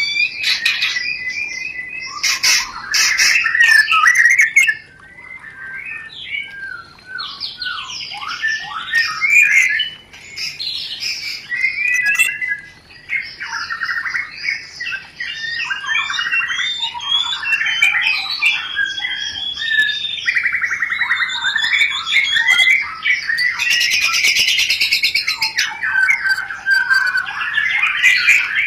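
White-rumped shama (murai batu) in breeding condition singing a rapid, varied chattering song of quick whistled notes and trills, broken by harsh buzzy calls near the start and again about two thirds of the way through.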